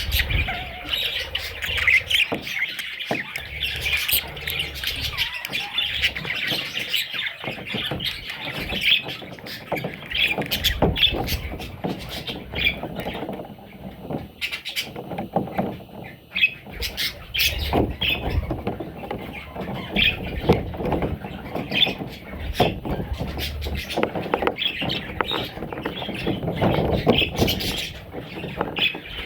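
A group of budgerigars chirping and chattering, with many short calls overlapping continuously.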